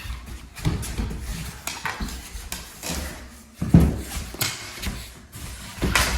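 Mini hockey sticks clacking and scraping against a ball and the floor in quick play, with irregular sharp knocks; the loudest comes a little before the middle.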